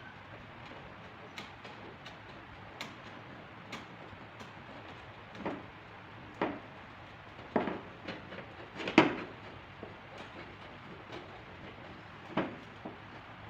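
Irregular light taps and knocks of paintless dent repair tools against a car's body panel, with faint ticks between. A handful are sharper, the loudest about nine seconds in.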